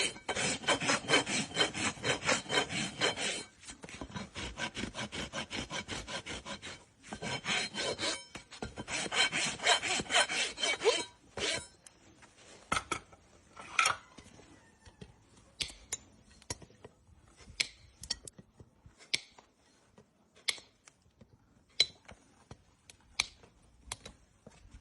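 A farrier's rasp filing down a horse's hoof in quick, rough strokes for about the first eleven seconds, with brief pauses. After that come only scattered light clicks and taps.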